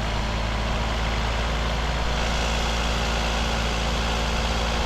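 Kia Forte GT's turbocharged direct-injection engine running steadily at a raised speed of about 1,750 rpm, throttle held open with a stick while intake-valve cleaner is sprayed into the intake. The electric radiator cooling fan runs alongside with a steady rush.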